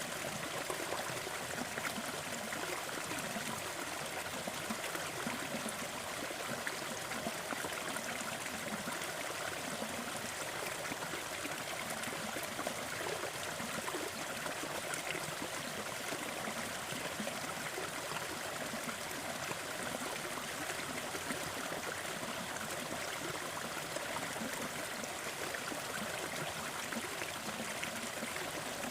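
Small forest waterfall flowing: a steady, even rush and trickle of falling water.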